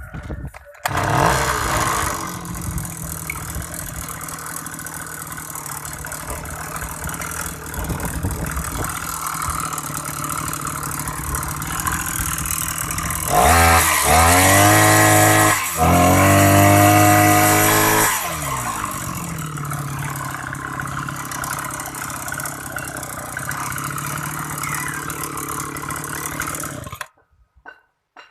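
Brush cutter engine running: it comes in about a second in and idles steadily, is revved up twice in quick succession, the pitch rising and falling each time, then drops back to idle and cuts off suddenly near the end.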